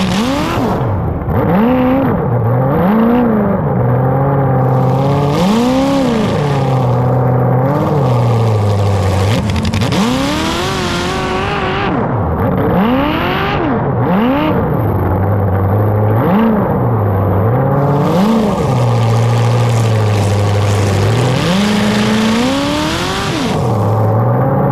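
Car engines revving up and falling back again and again, about a dozen rising and falling revs, over a steady low engine rumble between them.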